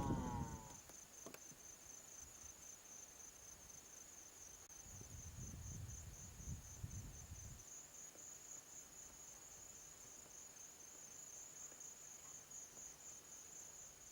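A cricket trilling, a faint, steady, high-pitched pulsing trill that never breaks. A brief low rumble comes in about five seconds in and lasts a couple of seconds.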